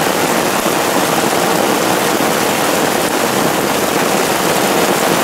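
Heavy rain falling on a tarp, with a stream of runoff pouring off the tarp's corner into a plastic 5-gallon bucket: a loud, steady, even rushing noise.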